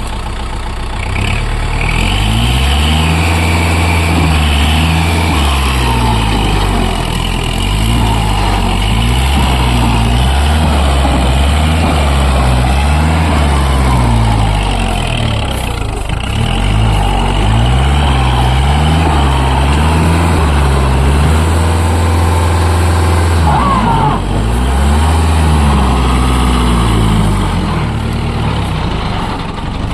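Kubota MU4501 tractor's four-cylinder diesel engine working under heavy load, its speed dropping and rising again and again as it strains to pull a loaded trolley out of mud.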